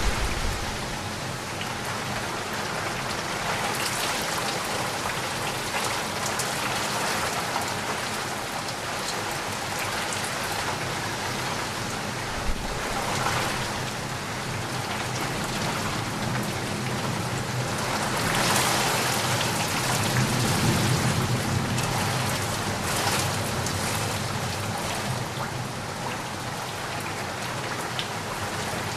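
Heavy rain falling steadily on a surface. About two-thirds of the way through, the sound swells louder with a low rumble of thunder.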